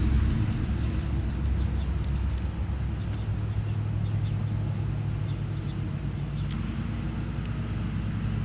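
Steady hum of a honeybee colony buzzing from an open hive during a frame inspection.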